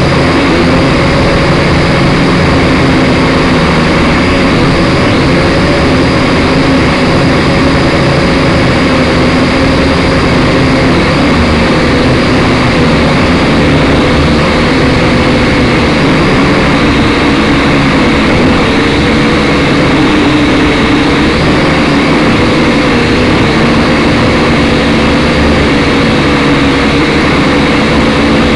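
Syma X5SC quadcopter's brushed motors and propellers whining steadily up close, as picked up by its onboard camera, the pitch wavering a little as the throttle shifts.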